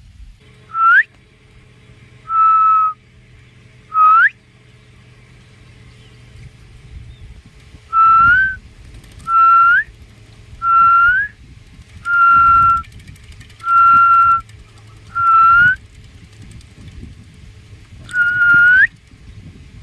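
A series of ten clear whistled notes, each held about half a second to a second, several sliding upward at the end, with a pause of a few seconds between the first three and the rest.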